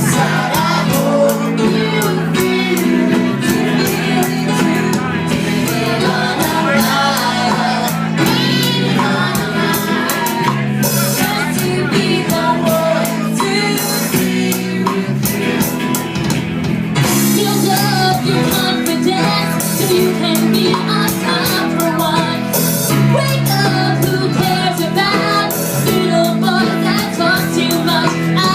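Live band music with drums, bass and a singing voice, drum and cymbal hits keeping a steady beat.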